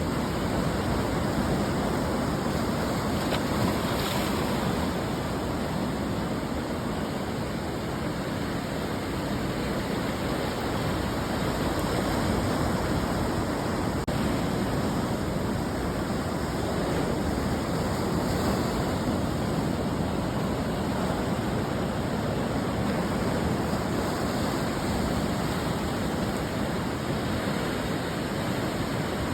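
Ocean surf breaking and washing on the shore: a continuous rushing wash with slow, gentle rises and falls in loudness.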